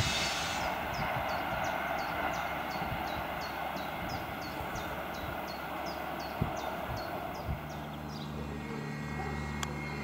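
An electric-hauled passenger train running away down the line, its rolling noise fading to a steady rumble. A bird chirps over it about three times a second. About eight seconds in, a low steady hum of an approaching electric locomotive comes in.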